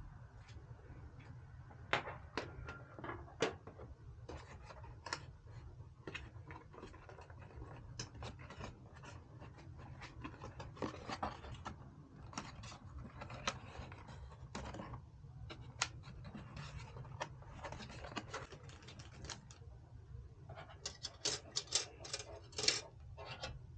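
Irregular clicks, taps and short scrapes of small hard parts being handled, with a quick run of louder clicks near the end, over a steady low hum.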